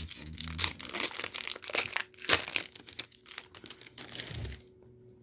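Foil booster-pack wrapper crinkling and tearing as it is pulled open, an irregular crackle that stops about four and a half seconds in.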